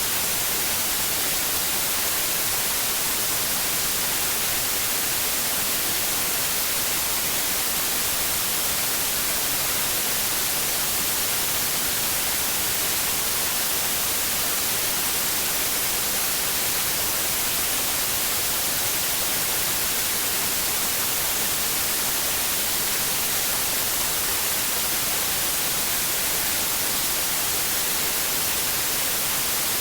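Continuous white noise for infant sleep: a steady, even hiss, heaviest in the high end, with no change at all.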